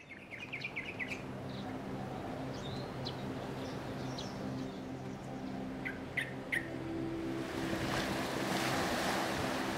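Birds chirping in short quick series of calls over a low steady drone. A broad rushing noise swells in during the last couple of seconds.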